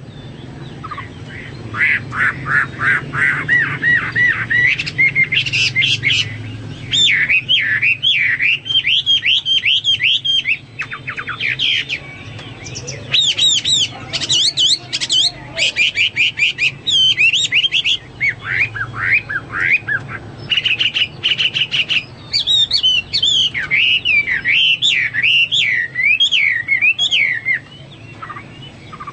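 Chinese hwamei (melodious laughingthrush) singing a loud, fast, varied song of whistled slurs and quick repeated notes, almost without a break, over a faint low hum.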